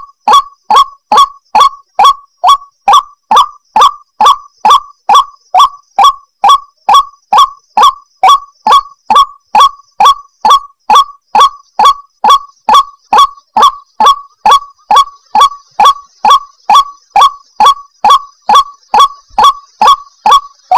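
White-breasted waterhen (ruak-ruak) calling: a loud, monotonous run of short, harsh notes, about two a second, each falling in pitch. This is the call used as a lure for trapping wild waterhens.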